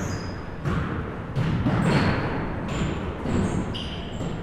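A basketball bouncing on a gym floor, with a thud every half second to second, and short high sneaker squeaks on the court in between.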